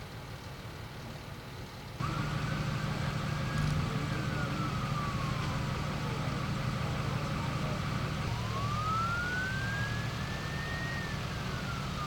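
Emergency vehicle siren wailing in two slow rise-and-fall sweeps over a steady low engine hum. The hum runs alone for about two seconds before everything jumps louder as the siren comes in.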